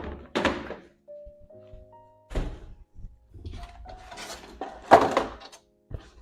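Background music with several knocks and clatters of household items being handled and set down, the loudest about five seconds in.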